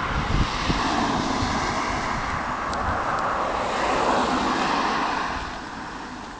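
Peugeot Vogue SP scooter engine running, its sound falling away over the last second.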